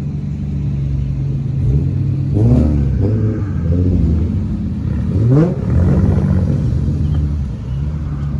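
Car engines running, with a car revving up twice, about two and a half and five seconds in.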